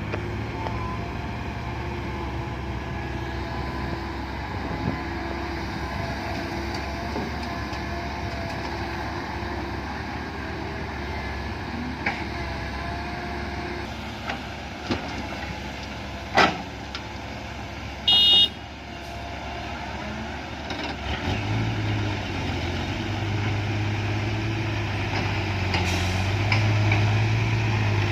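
Heavy diesel dump-truck engines running steadily, with a sharp knock and a short high beep around the middle. From about two-thirds of the way in, a deeper engine note comes in and grows louder as a truck works close by.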